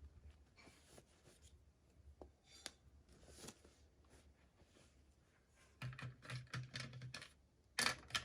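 Toy packaging being handled and opened by hand: faint scratching and tapping, then a quick run of clicks about six seconds in and one louder sharp noise near the end.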